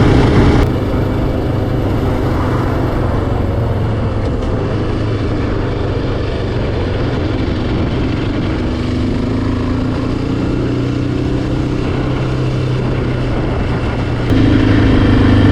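Yamaha Raptor 700R ATV's single-cylinder engine running steadily. The level steps down about half a second in and comes back up near the end, and the engine note rises slowly in pitch in the second half.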